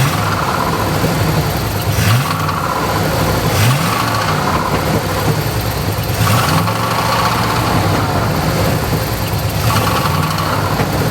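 An Olds engine running steadily, its pitch rising briefly about five times as the throttle is blipped.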